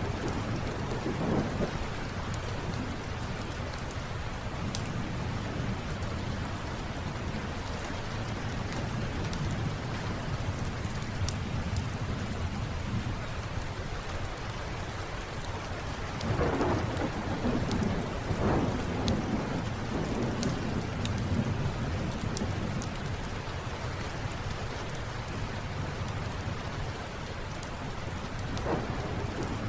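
Steady rain with low rolling thunder that swells up a little past halfway through. Small sharp crackles from a wood fire are scattered over it.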